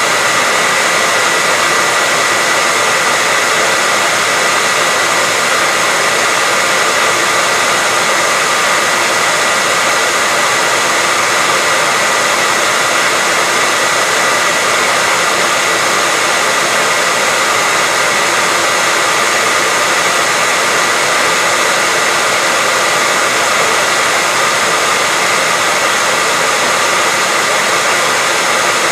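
Electric hairdryer running steadily: an even rushing hiss of air with a constant high motor whine, unchanging throughout.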